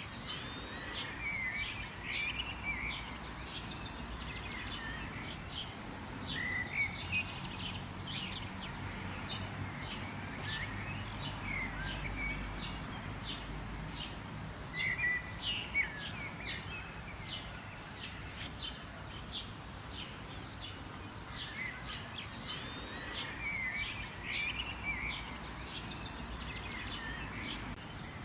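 Several birds chirping and singing together, a busy mix of short high chirps and warbled phrases, over a low steady background hum.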